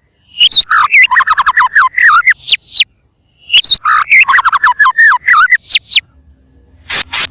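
White-rumped shama in full song: two long runs of quick, varied whistles and chattering notes, with a short break about three seconds in, then a pause broken by one short harsh note near the end.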